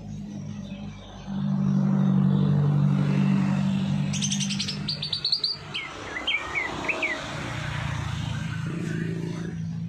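Small songbirds chirping: a fast rattling trill about four seconds in, then a run of short, quickly rising chirps. A low steady drone runs underneath and is loudest through the first half.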